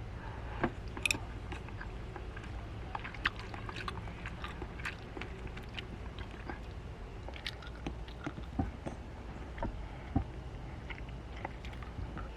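Scattered small clicks and crunches at an irregular pace over a steady low hum, in a small enclosed space.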